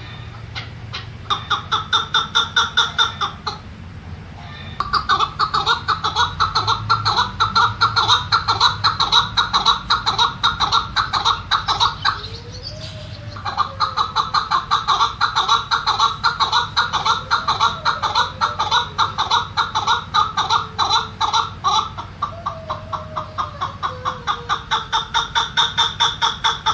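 Chukar partridge calling: long bouts of rapid, evenly repeated clucking notes, several a second. The bouts break off briefly twice, about four seconds in and about halfway through.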